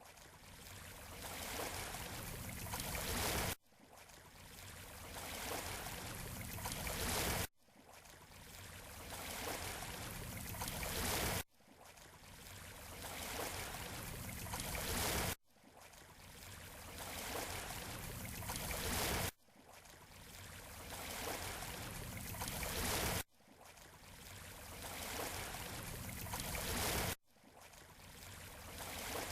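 A short recording of surf washing on a beach, looped: each pass swells in loudness for about four seconds, then cuts off abruptly and starts over, about seven times through.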